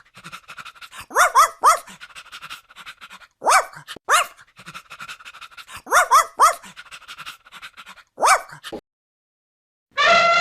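A small dog yapping: short, high-pitched yips in quick groups of one to three, about ten in all, stopping shortly before the end.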